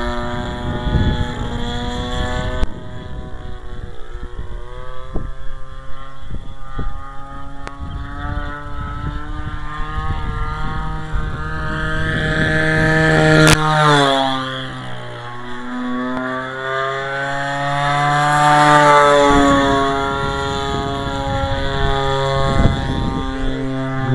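Radio-control Great Planes Giant Super Sportster flying, its converted Homelite 30cc two-stroke string-trimmer engine running with a pitch that rises and falls as the plane passes and changes throttle, dropping sharply about halfway through. Wind gusts buffet the microphone with a low rumble underneath.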